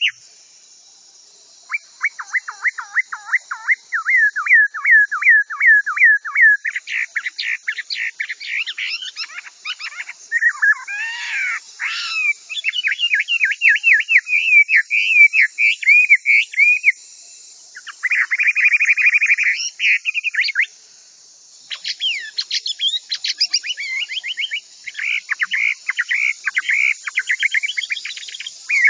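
Chinese hwamei singing: fast runs of loud, repeated whistled notes that change to a new phrase every few seconds, with brief pauses between runs, over a faint steady hiss.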